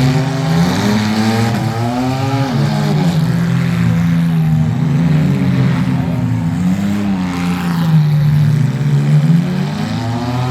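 Several demolition derby car engines running and revving at once, their pitches rising and falling independently.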